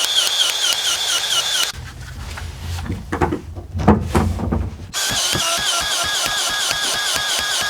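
Cordless PEX expansion tool expanding a pipe end for a fitting: a motor whine that dips and rises in pitch about four times a second with each stroke of the head. It stops for about three seconds in the middle, with handling knocks, then runs again.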